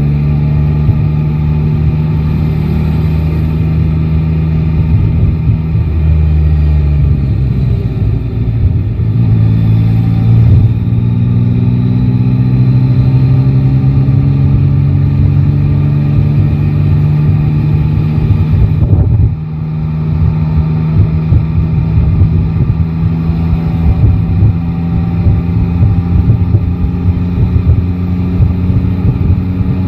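Yamaha Tracer 9 GT motorcycle's 890 cc inline-three engine running on the road. Its pitch rises steadily as it pulls for about ten seconds, dips sharply for a moment near the two-thirds mark, then settles into steady running.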